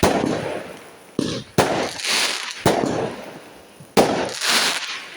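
Fireworks going off: five sharp bangs spread over about four seconds, each followed by a fizzing, crackling tail as it fades.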